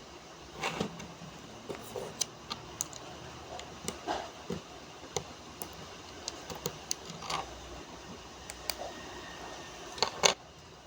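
Small plastic building-brick pieces clicking, tapping and rattling as they are handled and pressed together: scattered light clicks, with two louder clacks near the end.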